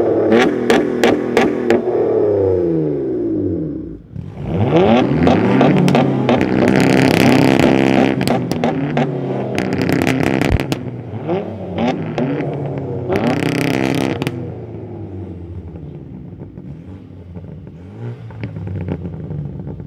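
Car engines revving hard through loud exhausts. It opens with quick repeated blips, then the revs fall away and climb again about four seconds in. They are held high with a harsh rasp in stretches, then die down toward the end.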